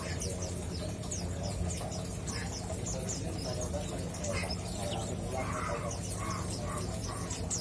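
Male mountain white-eye (pleci Monty) twittering softly to itself in a stream of quick, high, downward-sliding chirps, with a few lower calls just past the middle, over a steady low hum.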